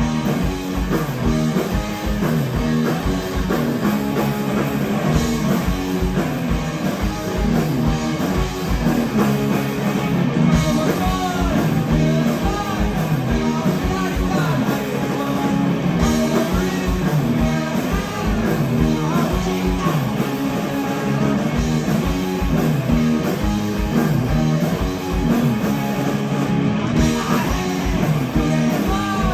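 Live rock band playing loud and steady: electric guitar, bass and drum kit, with gliding guitar lines over a regular beat.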